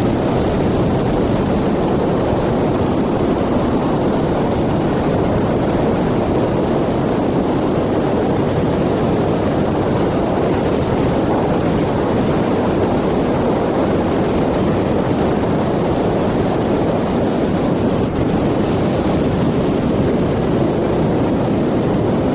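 A motorcycle on the move: steady, loud wind and road noise rushing over the microphone, with the engine running underneath.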